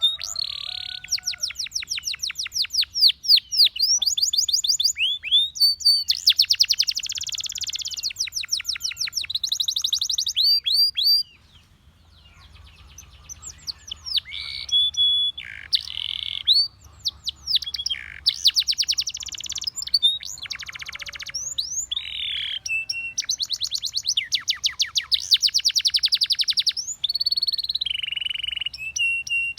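Domestic canary singing: fast rolling trills of rapidly repeated notes alternating with short whistled notes and glides, in phrases of a second or two, with a brief pause about eleven seconds in.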